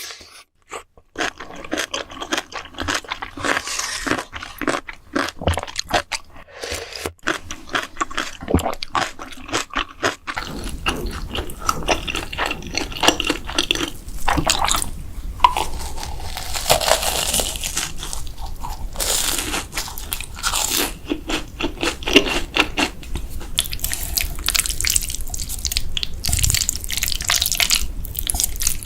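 Close-miked eating: crunchy bites and chewing, a rapid run of crisp clicks. About ten seconds in the sound turns denser and noisier, with a low steady hum under it.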